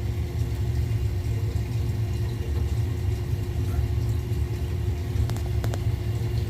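Ideal ISA combi boiler running while it heats the hot water: a steady low rumble with a constant hum throughout, and a couple of faint clicks about five seconds in.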